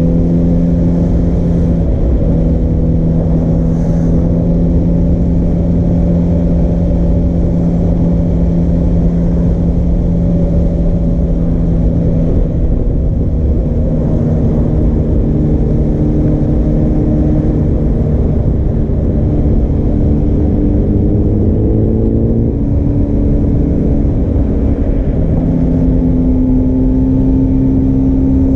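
Suzuki GSR400's inline four-cylinder engine through a Yoshimura Cyclone Tri-Oval exhaust, running steadily and loud. Its pitch shifts slightly a few times.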